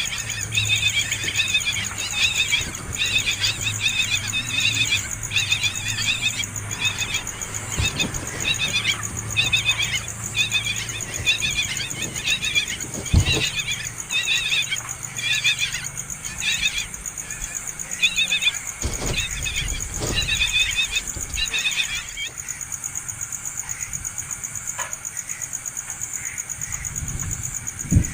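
Nestling birds begging for food, a rapid stream of short high chirps that stops about 22 seconds in. A few dull knocks come in between.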